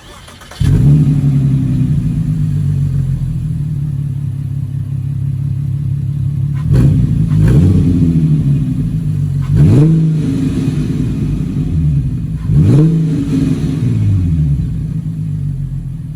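2014 Volkswagen Touareg's 3.6-litre VR6 running with its muffler cut off: it starts up about half a second in and idles, then is revved several times, each rev climbing and falling back to idle.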